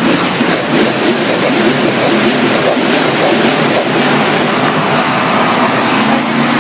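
Monster truck engine running loudly and continuously, with a shifting low drone.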